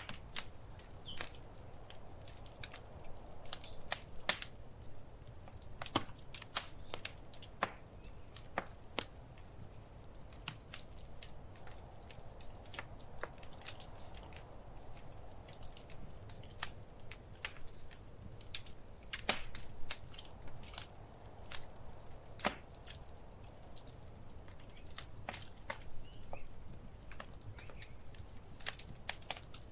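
Wood fire in a fireplace crackling: irregular sharp pops and snaps, a few louder ones, over a low steady rumble of flame.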